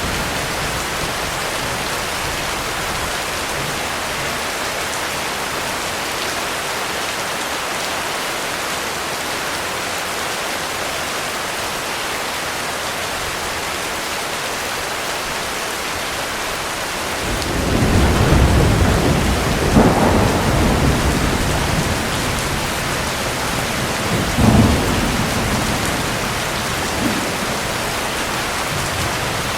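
Heavy rain falling steadily, with a roll of thunder building a little over halfway through, a sharp crack at its peak, and a second rumble a few seconds later before it fades back into the rain.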